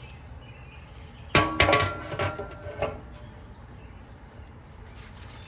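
Metal clanking and rattling: a quick cluster of ringing knocks about a second and a half in and one more near three seconds, from metal cookware being handled.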